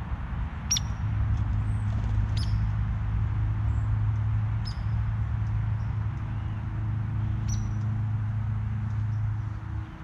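A bird calling with four short, high, downward-slurred chips a couple of seconds apart, over a steady low rumble.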